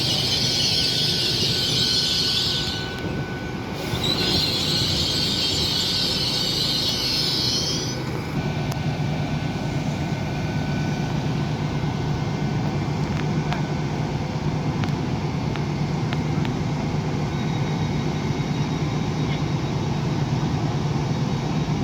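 Train at the station: a high-pitched noise for the first eight seconds or so, broken briefly about three seconds in, then a steady low diesel engine drone.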